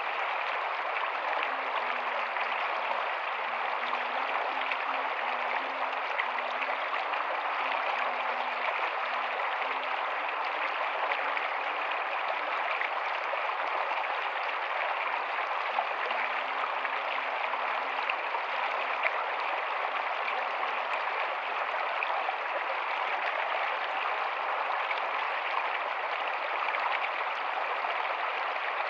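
Rocky stream running steadily over stones: a constant, even rushing of water.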